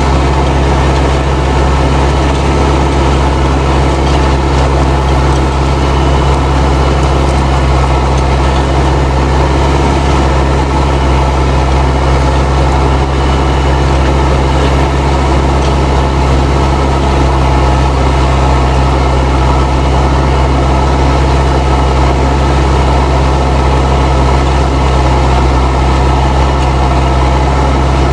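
Fendt 307 Ci tractor's turbo diesel engine running steadily under load while pulling a plough, with the turbo whistling.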